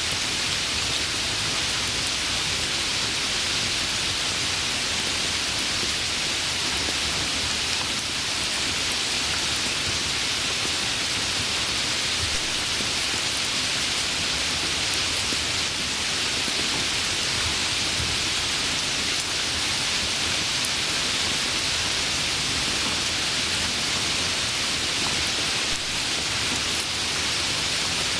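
Steady, even rain falling, a constant hiss with no thunder claps or changes.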